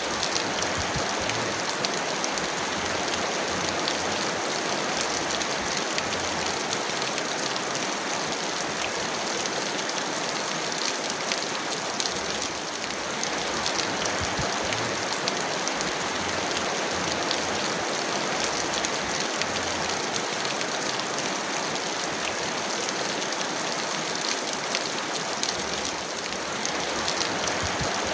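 Heavy rain falling steadily: a dense, even hiss with many small drop taps running through it.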